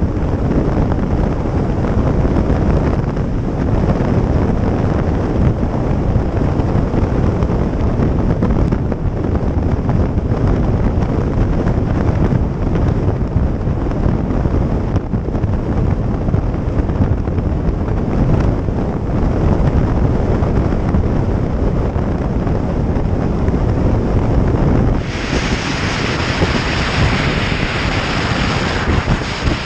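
Wind rushing over the microphone of a moving motorcycle, with a steady low rumble underneath. About 25 seconds in, a brighter hiss joins in and stays.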